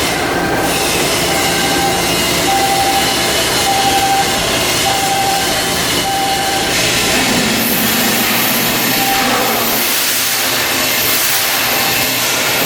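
Steady, loud hissing machinery noise, with a faint short tone sounding now and then.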